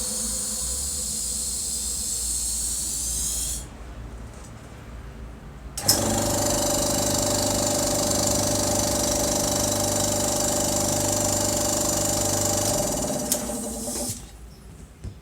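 Restored Iwata oilless air compressor running with a steady motor hum and hiss. It is switched off about three and a half seconds in and its pitch falls as it spins down. It starts again with a click about six seconds in, runs steadily, and stops near the end.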